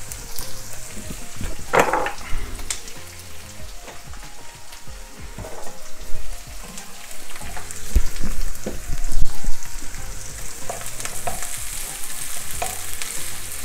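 Crushed onion, garlic, ginger and green chilli sizzling in hot oil in a nonstick pan, stirred with a wooden spatula that scrapes and knocks against the pan now and then. The stirring is busiest about eight to nine seconds in.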